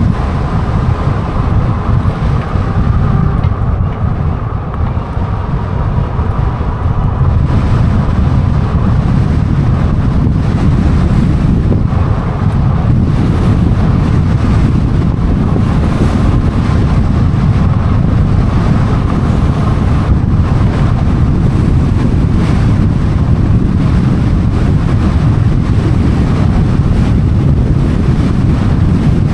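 Wind buffeting the microphone of a moving e-bike, a loud, steady low rumble. A faint steady whine sits under it for the first several seconds.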